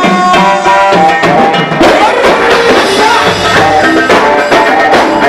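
Loud Egyptian shaabi band music: a melodic instrument line moving over a steady drum beat.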